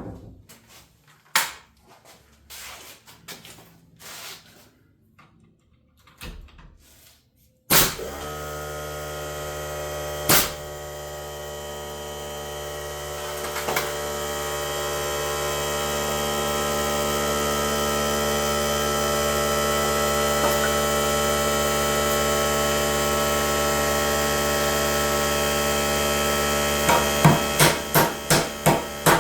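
A few scattered knocks of wood and tools being handled, then a power tool's motor starts abruptly and runs steadily, slowly growing louder. Near the end come a quick series of sharp blows, about three a second, over the running motor.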